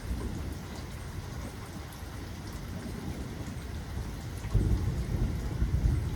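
Steady rain falling, with a low rumble of thunder that swells suddenly about four and a half seconds in.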